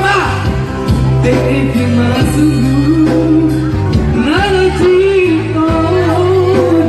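A man singing a melody over instrumental accompaniment with a steady bass, holding wavering notes through the middle.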